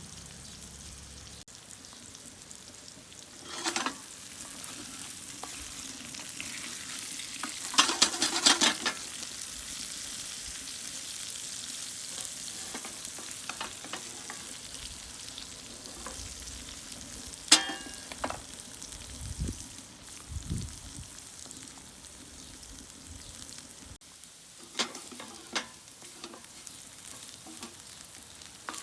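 Food sizzling steadily in a frying pan, with a burst of clicks and clatter about eight seconds in, a sharp knock about halfway through, and a few lighter clicks near the end.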